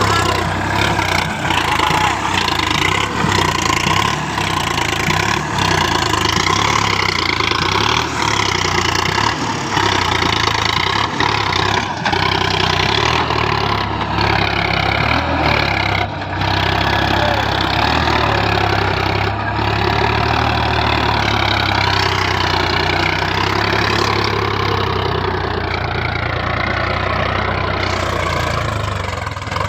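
Sonalika DI 47 RX tractor's diesel engine running continuously under load, its pitch wavering up and down as it works through sand.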